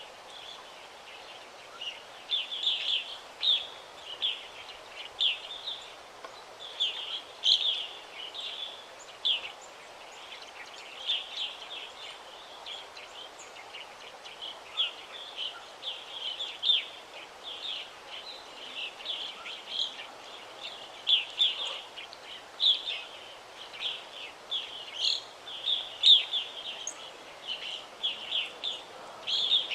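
Forest songbirds chirping and singing, short high notes and quick trills coming one after another throughout, over a steady faint hiss of background ambience.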